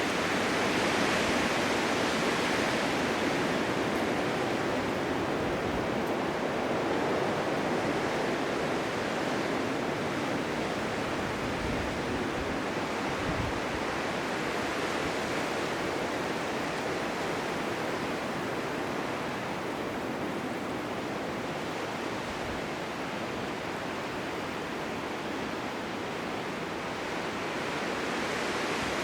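Blizzard wind: a steady rushing noise of wind-driven snow, swelling in a gust in the first few seconds, easing off, then building again near the end.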